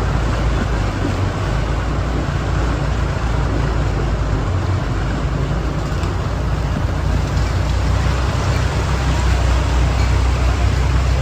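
Steady low rumble of road traffic, with a continuous hiss over it.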